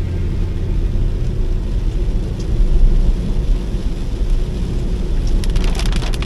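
Steady low rumble of a vehicle travelling on the road, with a few short crackling clicks near the end.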